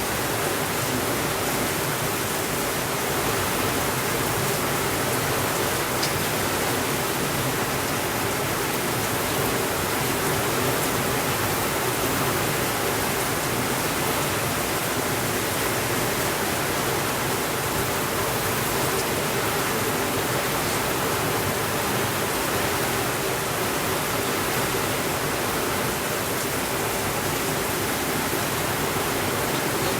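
Steady rain falling as an even, unbroken hiss, with no thunder.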